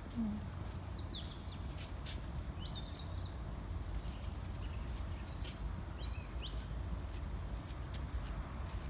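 Small songbirds singing: short high chirps and quick slurred notes in a few bouts, over a steady low rumble.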